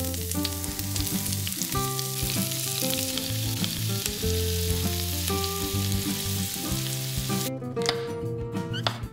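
Chopped onion sizzling in butter and olive oil in a frying pan, stirred with a silicone spatula. Near the end the sizzling stops and a knife slices button mushrooms on a wooden chopping board. Soft background music runs underneath.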